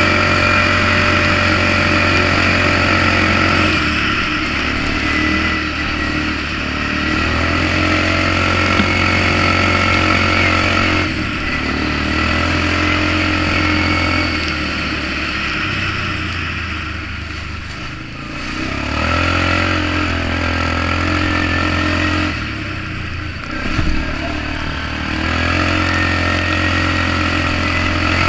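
Polaris Magnum 425 ATV's single-cylinder four-stroke engine running through a DG Performance RCM-II aftermarket muffler while riding. The exhaust note falls back and picks up again several times as the throttle is eased off and reopened.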